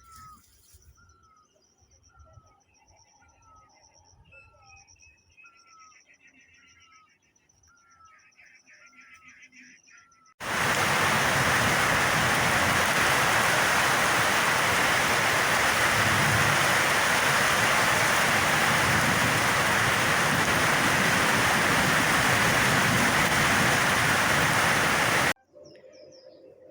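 Birds chirping in quiet surroundings, one repeating a short falling chirp about once a second. About ten seconds in, a loud steady hiss of heavy rain starts suddenly, runs for about fifteen seconds and cuts off abruptly.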